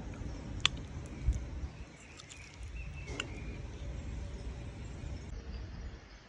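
Outdoor ambience: a steady low rumble, with a sharp click and then a thump in the first second and a half, and a faint bird call between about two and three seconds in.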